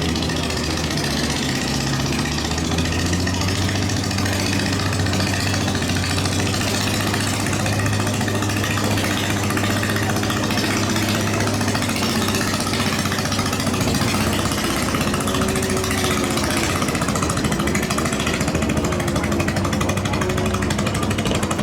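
Racing boat engines running loud and steady, with the pitch of one engine rising and falling a few times in the second half.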